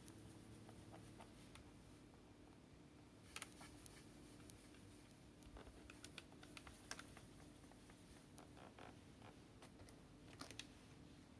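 Near silence: faint scattered clicks and taps over a low steady hum, a few sharper clicks standing out about three and a half, seven and ten and a half seconds in.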